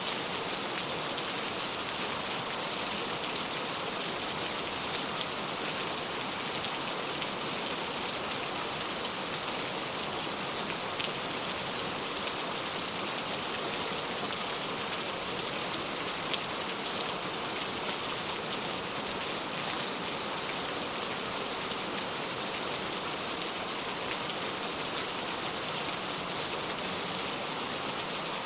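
Steady rain falling on the ground, an even hiss with scattered drop ticks.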